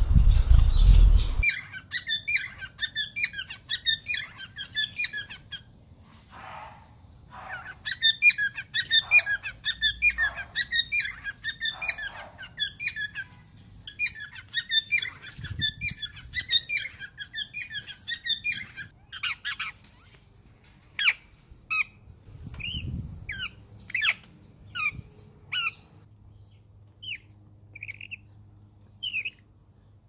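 Birds chirping: quick runs of high, repeated chirps for most of the first twenty seconds, thinning to scattered single chirps after that. A short burst of low rumbling noise opens the stretch.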